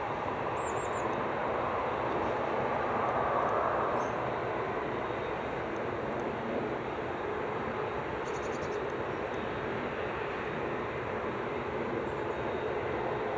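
Jet airliner engines running, a steady noise that swells to its loudest about three seconds in and then eases off.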